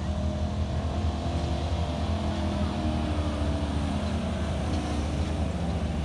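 A large vehicle engine running steadily under load, its pitch wavering slightly.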